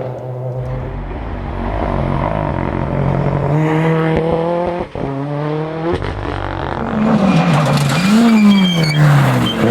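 Rally car engine at full load on a special stage, revving hard through the gears. The sound cuts out for an instant about halfway through, then the engine note sweeps up and down as the driver works the throttle.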